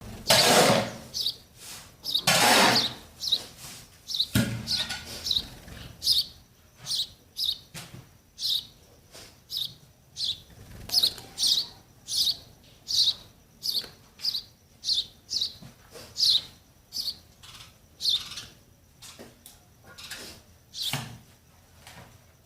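Sparrow nestlings begging with short, high cheeps repeated about twice a second, calling for their parents to feed them. A couple of loud rustling thumps come in the first few seconds.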